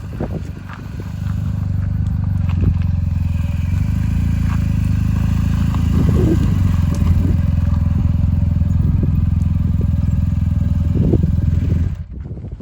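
Motorcycle engine running steadily, building up about a second in and cutting off abruptly near the end.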